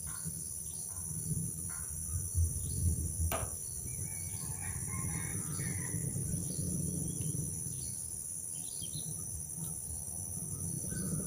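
Steady high-pitched drone of insects, with scattered short bird chirps over it and a low rumble underneath.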